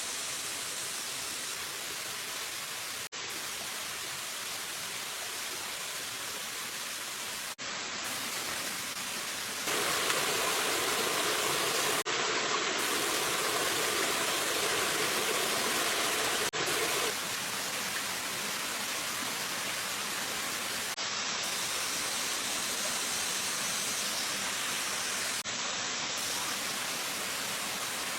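Steady rush of flowing water from a stream, louder for several seconds in the middle.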